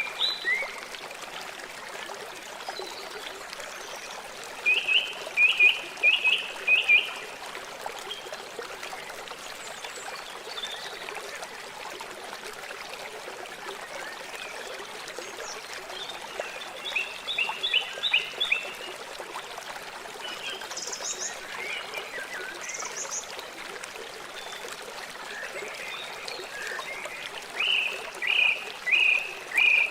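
River water flowing steadily, with an animal calling in three bursts of quick repeated high chirps about ten seconds apart and a couple of short higher notes in between.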